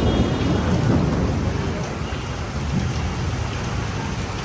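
Heavy rain falling steadily, with a deep rumble of thunder that fades away over the first couple of seconds.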